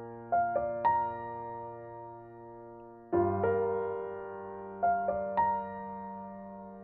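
Slow, quiet solo piano background music: low chords struck and left to fade, with single higher notes played over them.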